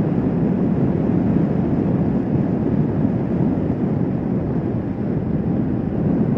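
Kawasaki Vulcan S 650 parallel-twin motorcycle cruising at a steady speed: an even rush of wind over the microphone with the engine's drone underneath.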